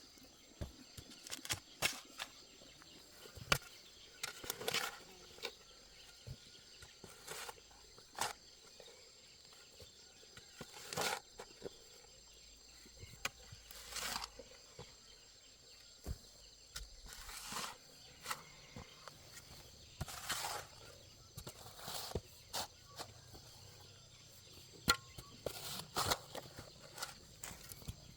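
Scattered knocks, clicks and short rustling scrapes from outdoor handwork, over a faint steady high drone of insects.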